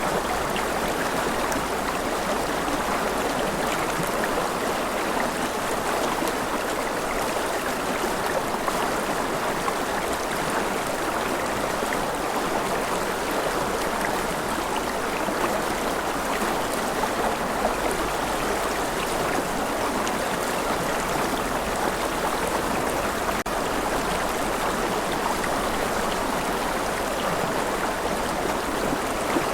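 Steady gentle rain: an even wash of falling water sprinkled with small drop patters, unchanging throughout.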